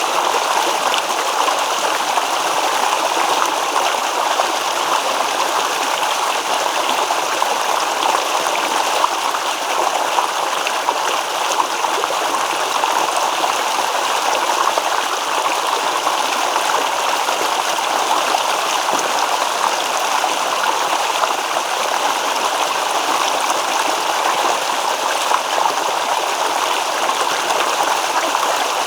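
Small stream babbling and gurgling over rocks, a steady even rush of water.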